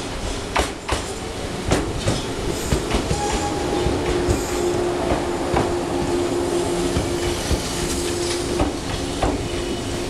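Shinano Railway 115-series electric train running slowly past as it arrives, its wheels clacking over the rail joints at irregular intervals. A steady whine joins in about three and a half seconds in.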